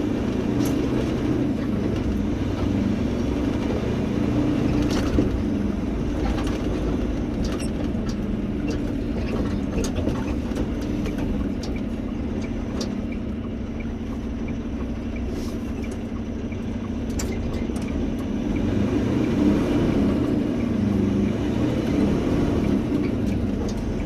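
A truck engine and road noise while driving, with a steady low drone that dips a little in level about halfway through.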